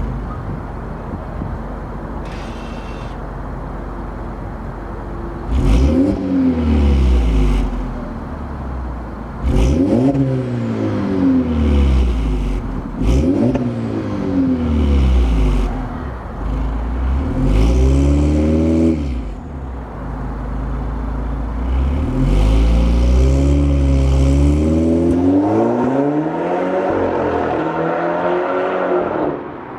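2013 Audi A4 quattro's APR Stage 2–tuned turbocharged 2.0-litre four-cylinder, heard through an AWE Touring quad-tip exhaust, idling and then revved four times in short blips. Each rev's pitch rises quickly and falls back, and a few sharp snaps come as the early revs start. Near the end a longer, slower rev climbs and then drops off.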